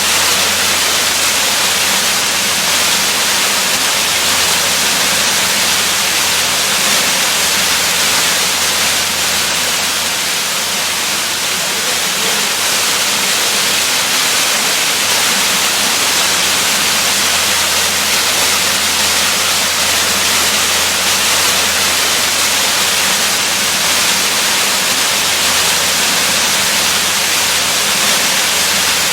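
Waterfall: a steady, unbroken rush of falling water, a dense even hiss.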